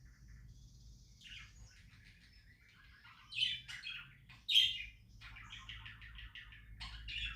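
Pet budgerigars chirping and chattering, with two louder sharp calls, one about three seconds in and one about four and a half seconds in, followed by a quick run of repeated chirps.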